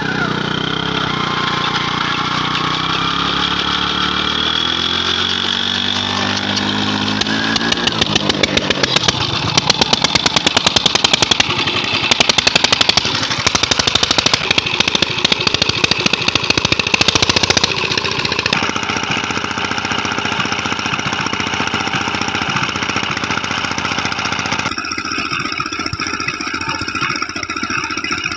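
12LD diesel engine speeding up over the first several seconds, then running hard with loud, rapid firing beats before settling into steadier running.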